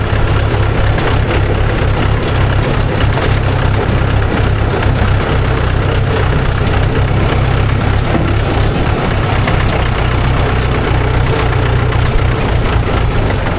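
Heavy diesel engine running steadily at low revs, a deep, even hum.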